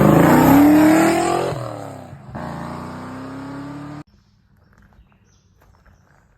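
Car engine accelerating hard, the engine note climbing, easing off, then climbing again after a gear change about two seconds in, before cutting off abruptly. Faint quiet ticks follow.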